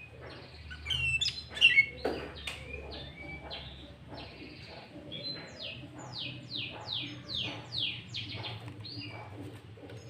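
Sooty-headed bulbul (kutilang) singing: a few short chirps in the first couple of seconds, then a quick run of about eight whistled notes, each sliding downward, in the second half.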